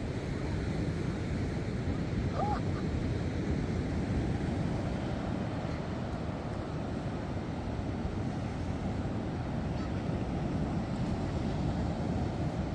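Steady wind rumbling on the microphone, with one short rising-and-falling chirp about two and a half seconds in.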